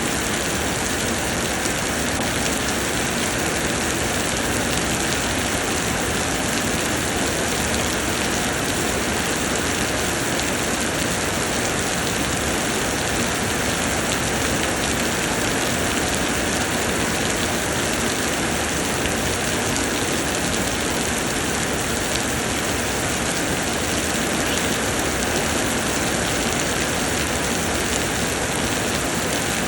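Steady, heavy summer rain pouring down, an even unbroken hiss with no thunder or separate drops standing out.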